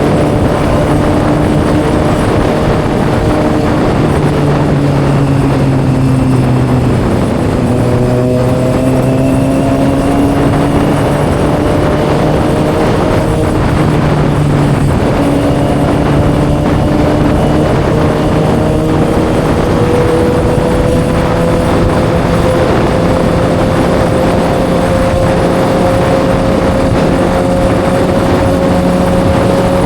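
Kawasaki ZX6R's inline-four engine running through an M4 aftermarket exhaust while riding, under a heavy rush of wind noise. The engine note shifts in pitch a few times in the first half, then rises slowly and steadily near the end.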